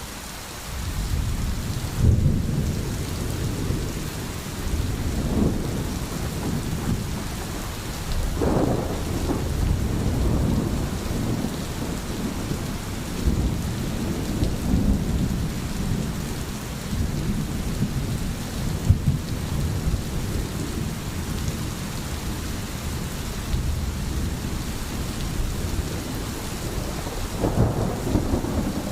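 Steady rain falling, with thunder rumbling low and rolling on through it, swelling now and then.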